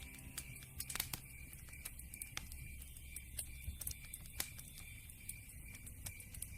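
Campfire crackling, with irregular sharp pops and snaps of burning wood over a low steady rumble of the flames.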